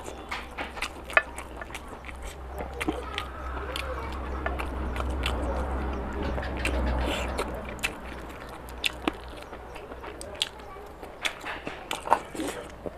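Close-up wet chewing and mouth clicks from a man eating rice and curry by hand, with fingers squishing and mixing rice and curry on the plate. A low hum swells and fades in the middle.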